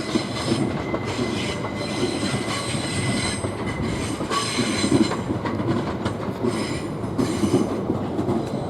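Southeastern Class 375 electric multiple unit passing on the rails into Victoria, a steady rumble of wheels on track. A thin, high, steady wheel squeal runs through the first few seconds.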